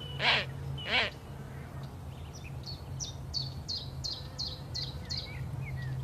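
Birds calling: two loud harsh calls in the first second, then a small bird repeating a short high note about three times a second for a few seconds, over a steady low hum.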